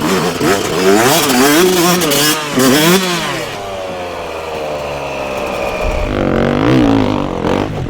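Dirt bike engine revving, the throttle snapping open and shut several times in quick succession. The pitch then falls away in one long slide before more quick revs near the end.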